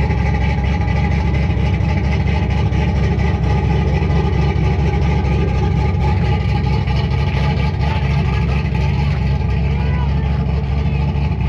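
A truck engine running steadily with a strong, even low rumble.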